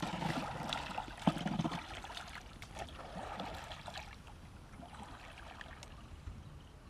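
Water trickling and lapping around a small boat, with a sharp knock about a second in and scattered small splashes and clicks. It grows fainter through the second half.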